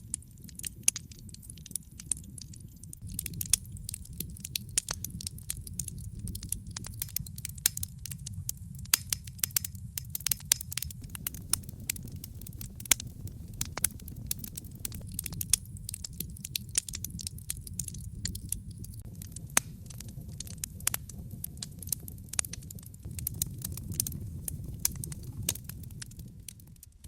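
Fireplace fire crackling, with frequent irregular sharp pops and snaps over a low steady rumble of the flames.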